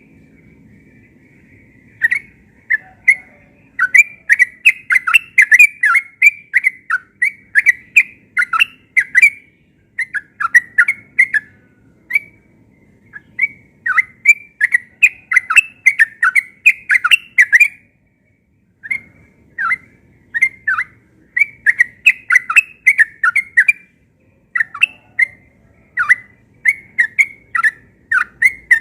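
Sooty-headed bulbul (trucukan) singing rapid, bubbly runs of short notes in long unbroken phrases, the fast continuous style keepers call "ropel". It starts about two seconds in and pauses briefly a few times.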